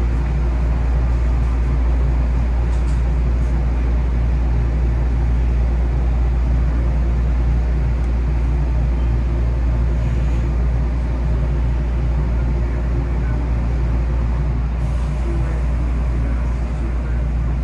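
Steady low hum and rumble of a 223 series electric train standing at a station platform, heard from the cab.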